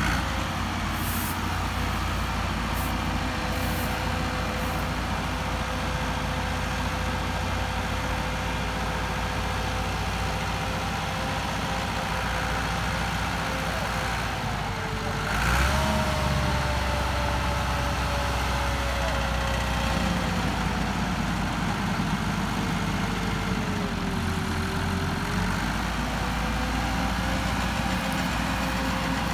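Massey Ferguson tractor's diesel engine running steadily. Its speed dips briefly and recovers about halfway through and again later, as if under load during a power check.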